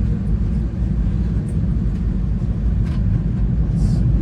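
Steady low rumble of VIA Rail's Canadian passenger train rolling along the track, heard from inside a dome observation car. A faint click comes about three seconds in and a short hiss near the end.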